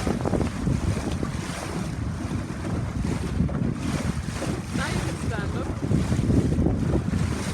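Wind buffeting the microphone on a moving boat, over the steady rush of water against the hull.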